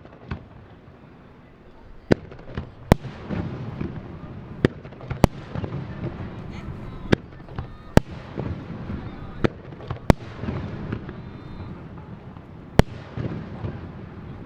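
Aerial fireworks shells bursting, about ten sharp bangs at uneven intervals, roughly one a second, over a continuous wash of crackle and echo.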